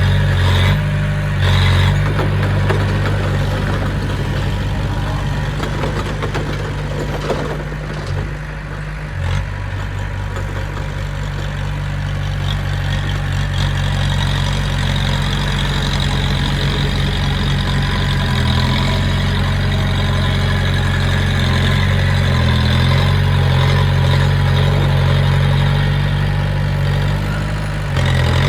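Diesel engine of a heavy machine, a bulldozer or dump truck, running steadily with a low hum. Its pitch shifts briefly a few times.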